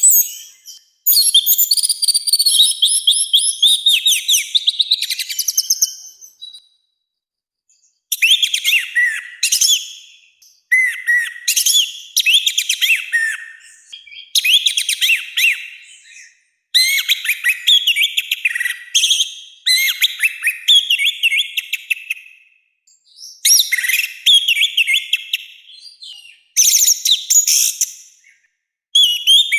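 Orange-headed thrush singing in loud, harsh, varied phrases of two to three seconds each, packed with quick notes and separated by short pauses, with a longer pause about six seconds in.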